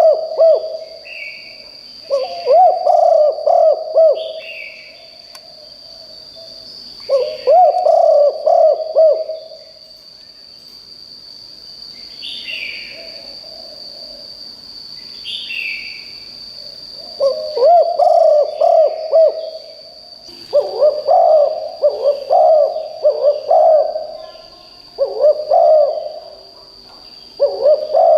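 Spotted dove cooing: loud phrases of throaty coos about two seconds long, repeated with pauses and coming closer together in the second half. A steady high-pitched whine runs underneath, with a few short, higher calls from other birds.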